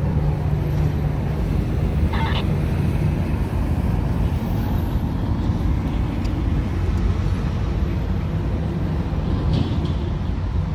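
Steady low rumble of a freight train's cars rolling past on the rails, mixed with road traffic noise from a highway overpass and a passing dump truck. Two brief high-pitched sounds stand out, about two seconds in and again near the end.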